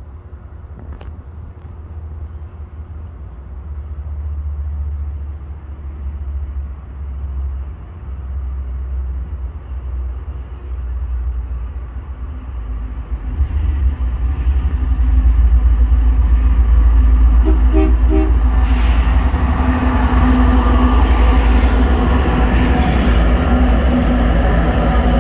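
Diesel freight locomotives approaching and then passing close by: a low rumble with a steady engine drone that grows louder, jumps up about halfway through and stays loud as the units go past.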